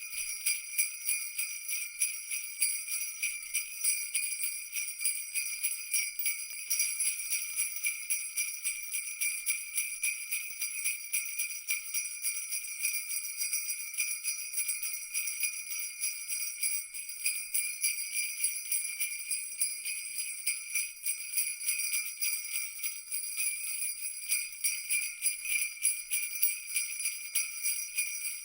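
Jingle bells shaken continuously in a dense, steady jingling. The ringing is high-pitched, with nothing low.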